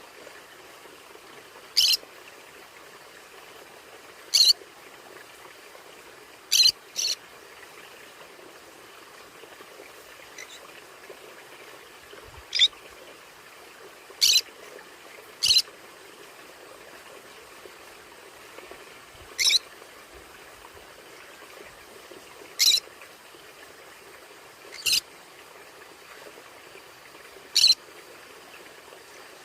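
Conure giving short, sharp, high calls, about a dozen of them spaced two to three seconds apart, one pair close together about seven seconds in.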